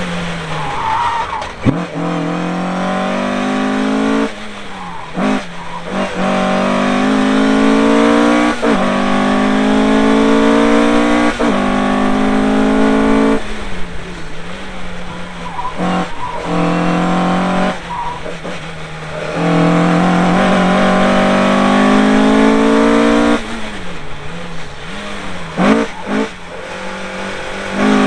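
Car engine on a fast circuit lap, heard from a front-bumper camera: it climbs in pitch through the gears again and again, drops sharply at each upshift, and goes quieter for a few seconds where it lifts off for corners. Wind and road noise run underneath.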